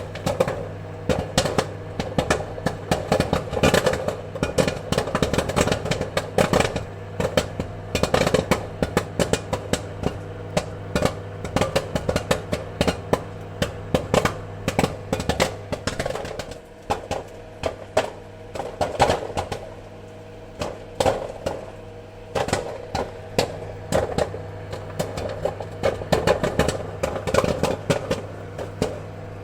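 Popcorn kernels popping: rapid, irregular sharp pops, sometimes clustered, over a steady low hum.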